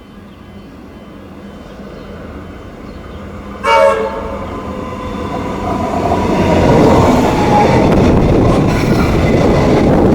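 Melbourne suburban electric train approaching: a short horn blast about four seconds in, then the rumble of the train growing louder as it runs in and passes.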